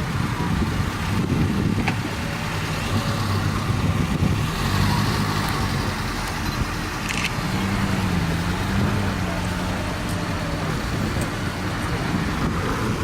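Classic car engines running at low revs as cars roll slowly past, a steady low rumble whose pitch wavers a little about eight seconds in.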